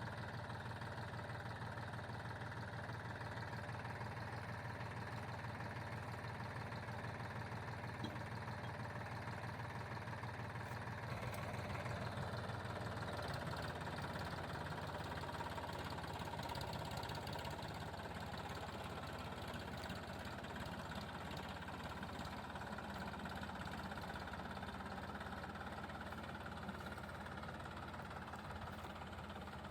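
Massey Ferguson tractor engine running steadily at low revs, getting a little louder about eleven seconds in.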